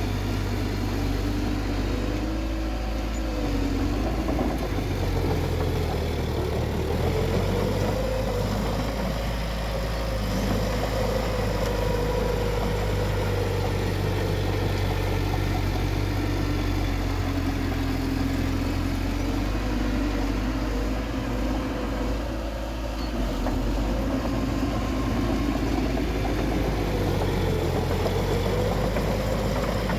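Bulldozer's diesel engine running steadily, its pitch slowly rising and falling as the load changes.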